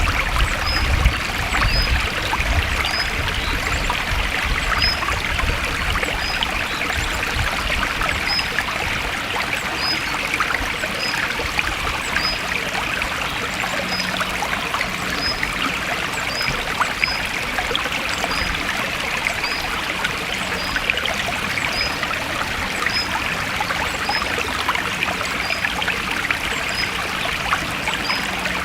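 Stream water flowing and trickling steadily, with short high chirps repeating about once a second.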